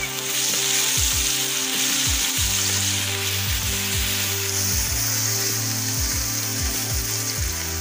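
Sliced onions and garlic-ginger paste sizzling steadily in hot oil in a metal pot.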